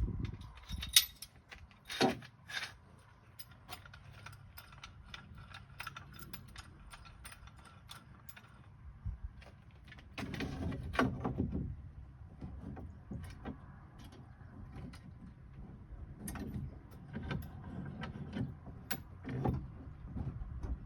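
Scattered clicks, knocks and rattles of hard objects being handled, with two sharper knocks about a second and two seconds in and a busier stretch of rattling about halfway through.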